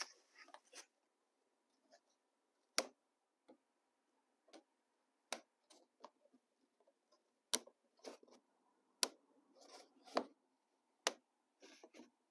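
Plastic KATO HO Unitrack sections being snapped together and set onto the layout: faint, sharp clicks every second or two, with light rubbing and scraping between them.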